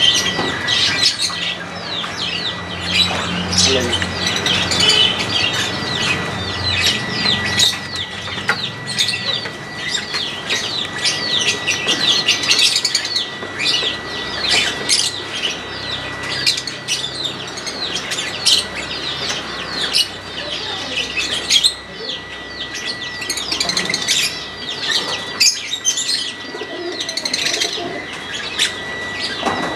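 Many small birds chirping at once in a dense, continuous chatter of short, quick calls, with a steady high thin tone running underneath.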